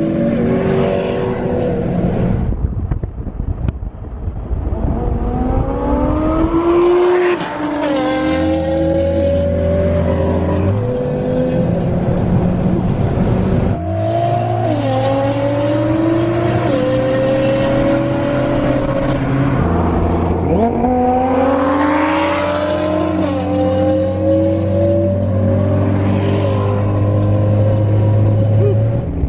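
Car engine accelerating hard and shifting up through the gears: its pitch climbs, drops suddenly at each shift, and climbs again, several times over, with a steady low exhaust drone beneath.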